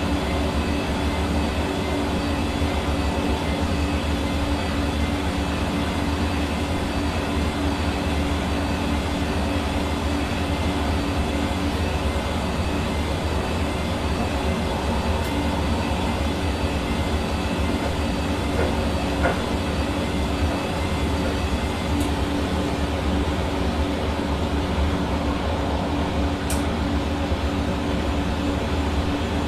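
Hair dryer running steadily: a constant rush of air over a steady motor hum.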